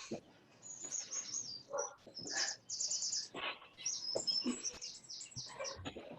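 A small bird chirping and trilling: many quick, high-pitched chirps and short rapid trills.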